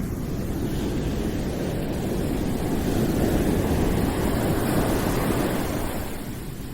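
Steady low rushing noise of a calming background-noise track, swelling louder about halfway through and easing near the end.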